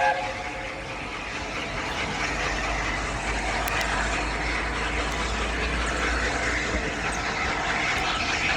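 LNER A4 steam locomotive on the move, a steady rumble and hiss.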